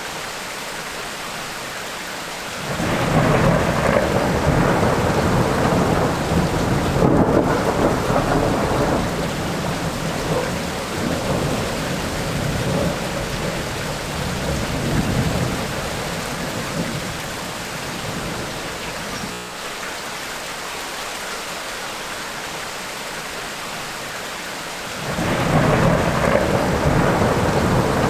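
Steady rain with thunder: a long rolling rumble starts about three seconds in and dies away over some fifteen seconds, and another begins near the end.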